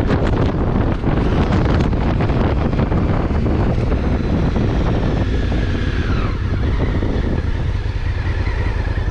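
Honda Africa Twin CRF1000L parallel-twin engine under way, with heavy wind noise on the microphone. About halfway through, the engine note falls as the bike slows, and the wind noise dies down near the end.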